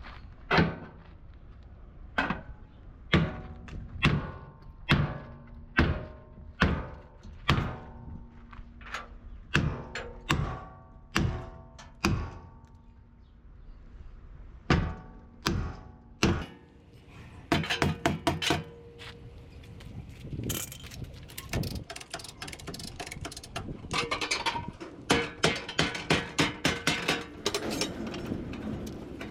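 Hammer blows on the sheet metal of a Mercedes-Benz truck cab, each strike ringing briefly. The blows come steadily about once a second at first, then in quick rapid-fire runs in the second half.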